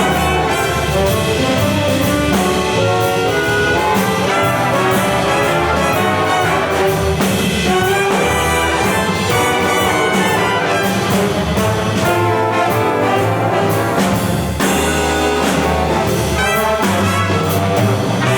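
School band music with brass instruments leading over a steady beat.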